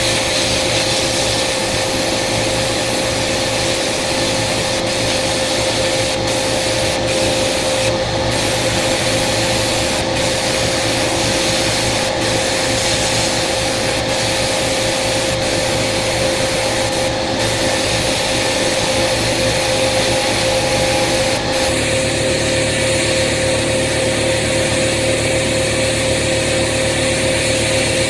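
Sandblaster spraying abrasive with compressed air: a loud, continuous hiss that breaks off for a moment several times, over a steady machine hum.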